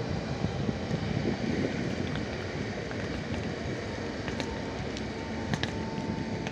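Koleje Dolnośląskie electric multiple unit moving off along the platform: a steady rumble of wheels and running gear, with wind on the microphone. A faint thin whine comes in about four seconds in, with a few light clicks near the end.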